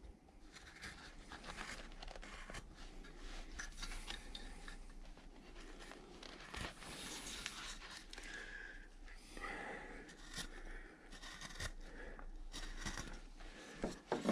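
A large 10 mm V tool pushed by hand through wood, cutting a groove: a quiet, irregular run of short scraping, crunching cuts with small clicks.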